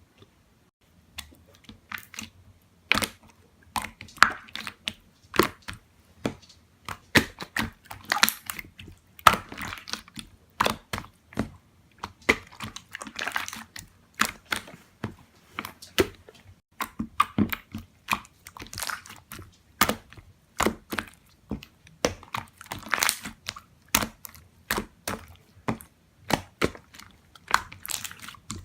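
Slime being pressed, poked and stretched by hand, giving irregular crackling pops and clicks in quick clusters.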